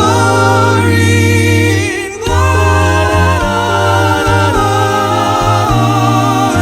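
Music: several voices singing a Christmas carol in harmony, holding long sustained notes and chords, with a short break about two seconds in.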